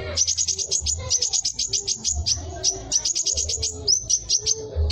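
Sunbird singing a fast, high-pitched trill of sharp notes, delivered in repeated bursts with short gaps, a few notes sliding downward near the end.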